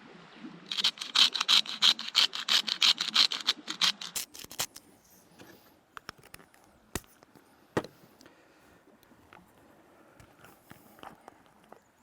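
A fast, even run of sharp knocks on a board, about five a second for some three seconds, then a few separate clicks.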